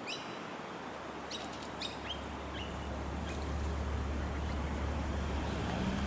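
Small birds chirping in short, quick calls, mostly in the first few seconds. A low rumble sets in about two seconds in and carries on under them.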